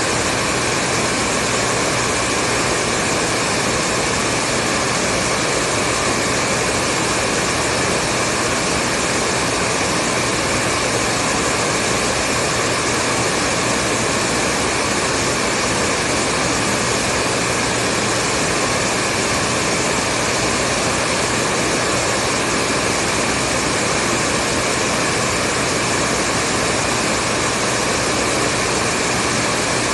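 Hair dryer running steadily: a continuous blowing hiss of fan and airflow with a faint motor hum, unchanging in level.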